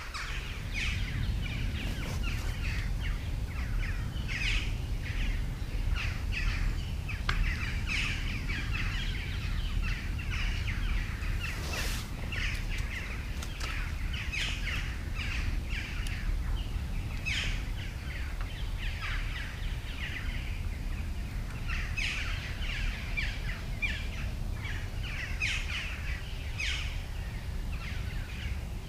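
Small birds chirping and singing on and off over a steady low rumble, with one sharp click about twelve seconds in.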